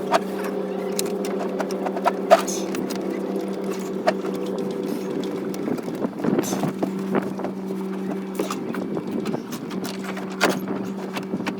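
Scattered clicks and knocks of a boat steering cable being pushed through its run toward the hull, over a steady two-tone hum.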